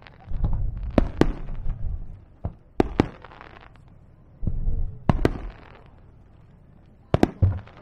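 Aerial firework shells bursting in clusters: sharp bangs with deep rumbling booms, and a crackling hiss after some of the bursts. There are about a dozen reports in four groups, around one second in, around three seconds in, around five seconds in, and near the end.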